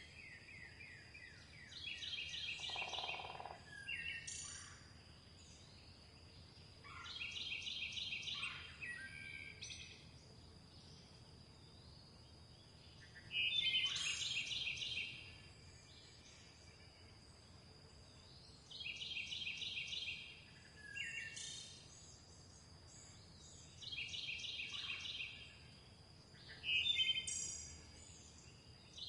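A songbird repeating the same short, rapid trilled phrase about every five to six seconds, six times, with other short bird calls in between. A faint steady high-pitched tone runs underneath.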